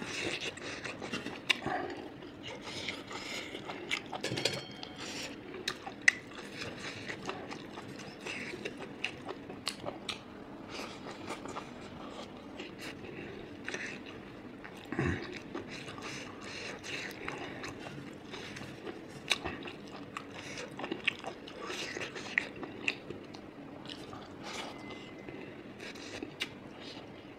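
Close-up chewing and eating sounds of a person eating rice and pork intestine by hand, with many small irregular clicks, and fingers mixing rice on a plate.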